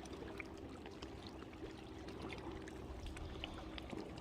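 Small waves lapping and splashing against a kayak hull, with many little scattered splashes and drips over a steady low rumble of wind.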